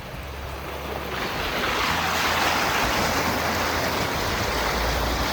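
A Jeep on the move on a trail: a steady rushing noise that swells about a second in and then holds, over a low engine drone.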